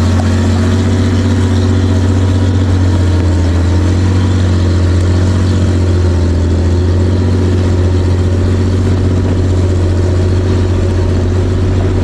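Truck engine running steadily, a deep, even drone with no change in speed.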